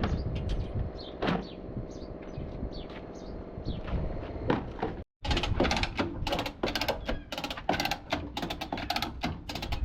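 A steady machine hum with occasional knocks. After a break it gives way to a rapid run of sharp metal knocks, several a second, like hammering on truck-cab sheet metal.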